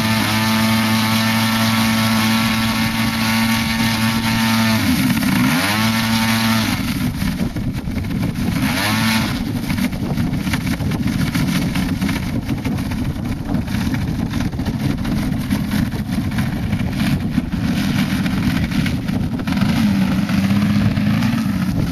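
50cc gasoline engine of a radio-controlled aerobatic plane running at a steady pitch, dipping briefly about five seconds in and coming back up. From about seven seconds on the engine note turns rougher and less clear, with faint rises and falls in pitch.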